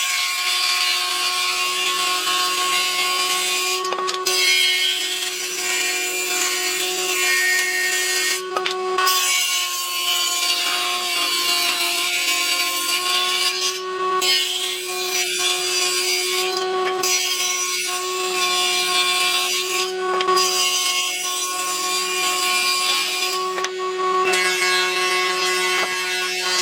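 Handheld electric power tool running with a steady motor whine while it works wood, giving a coarse rasping hiss. The wood noise breaks off briefly about six times while the motor tone carries on.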